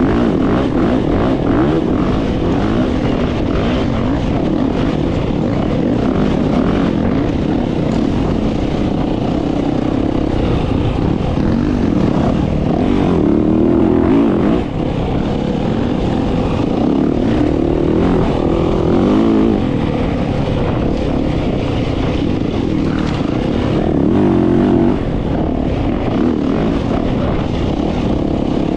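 Dirt bike engine running hard on a single-track trail, its revs rising and falling with the throttle, dipping briefly about halfway through and again near the end.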